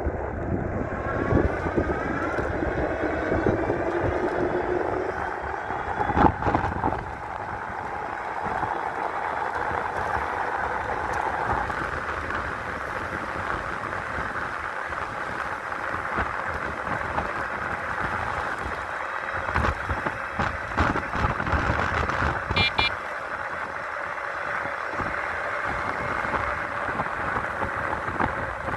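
A 5000-watt electric bike being ridden at speed, with a steady rush of wind and road noise. The motor's whine rises in pitch over the first few seconds as the bike speeds up.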